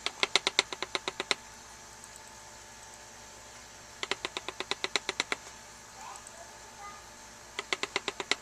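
Three runs of quick, light clicks, about ten a second, each lasting a second or so, from working a black powder measure while measuring out 50 grains of Pyrodex.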